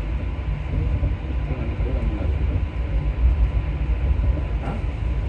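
Paris Métro line 4 MP14 rubber-tyred train running through the tunnel, heard from inside the leading car: a steady low rumble.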